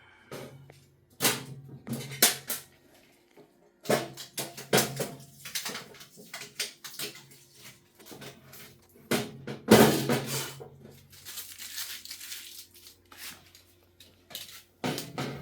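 Objects and packaging being handled: irregular knocks, clicks and clatter, with a burst of rustling about ten seconds in and a low hum that comes and goes.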